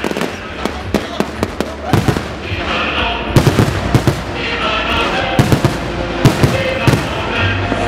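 Fireworks show, with many shells bursting in rapid succession in a dense run of loud bangs.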